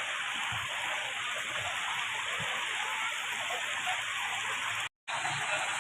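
Steady hiss of rain falling, broken by a brief total dropout about five seconds in.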